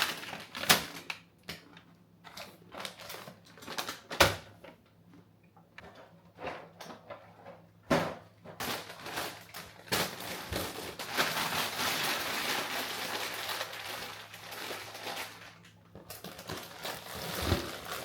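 Snack packaging and boxes being handled in a kitchen cabinet: plastic bags crinkling with sharp taps and knocks, and a longer stretch of steady rustling from about ten seconds in.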